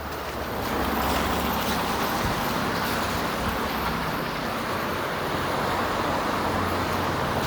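Steady hiss of traffic on a wet street with a low engine hum underneath, growing louder about a second in and then holding.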